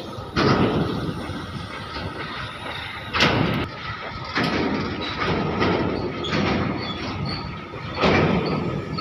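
Covered goods wagons of a freight train rolling past, their wheels clanking heavily over the rail joints about six times as the bogies go by, over a steady rumble and a faint thin squeal.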